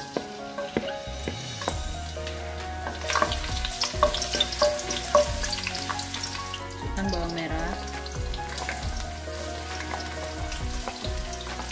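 Sliced garlic sizzling in hot oil in a wok, with a wooden spatula clicking and scraping against the pan as it is stirred. Near the end, sliced shallots are tipped into the oil.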